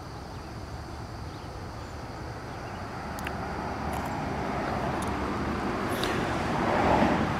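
Rumble of an approaching Amtrak passenger train, still out of sight, growing steadily louder.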